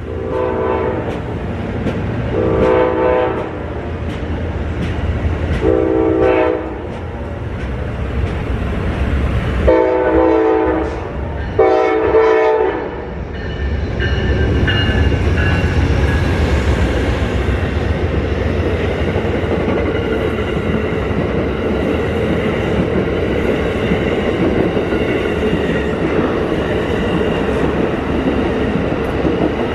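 Amtrak passenger train's horn sounding five blasts of about a second each. The passenger cars then roll past with a steady rumble and rail clatter.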